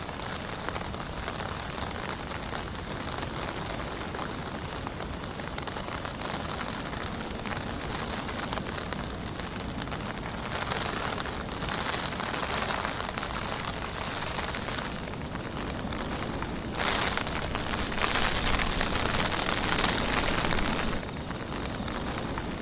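Heavy rain falling steadily, a dense patter of drops that swells louder for a few seconds in the second half.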